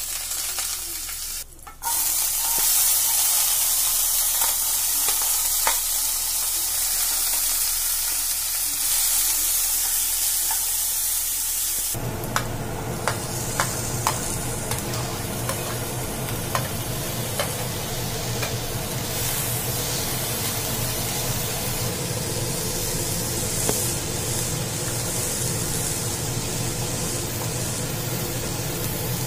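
Chopped green chilli sizzling in hot oil in a frying pan. About twelve seconds in the sound changes to a pan of chopped vegetables frying while they are stirred, with light clicks and knocks against the pan.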